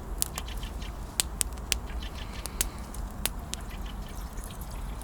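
Wood campfire crackling: sharp, irregular pops, about a dozen, over a steady low rumble.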